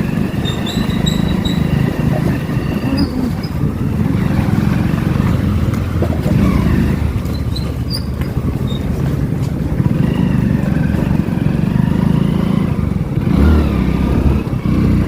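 Motorcycle engine running steadily while riding, its low hum unbroken, with a shift in the engine note near the end.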